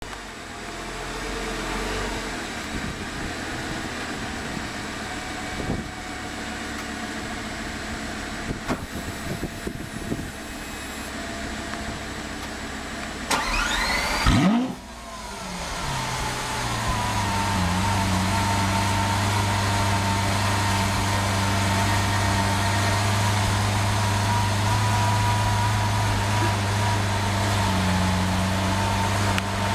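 Lamborghini Aventador LP700-4's V12 engine starting: about thirteen seconds in, it catches with a sharp rising rev flare that drops away. It then settles into a loud, steady idle.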